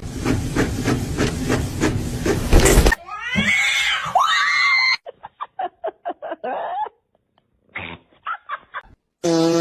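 Cats meowing and yowling: drawn-out calls that rise and fall in pitch, then a run of short, clipped meows with pauses between them. Before the calls there are about three seconds of a rhythmic, noisy pulsing sound, and a steady hum starts just before the end.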